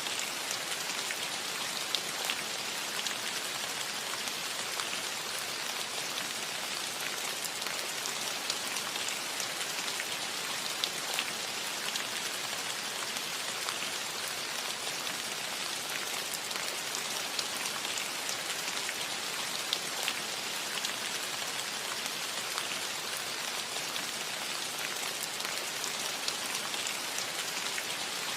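Steady rain falling on a roof, an even hiss with many separate drops ticking through it.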